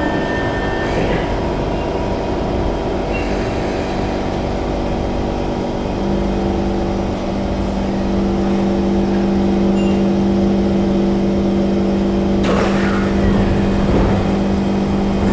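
C151 MRT train's electrical equipment humming steadily with several fixed tones, with a second tone joining about six seconds in. A sudden hiss about twelve seconds in fades away.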